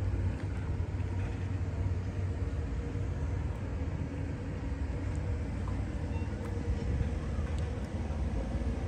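Steady low rumble of outdoor background noise with a faint steady hum.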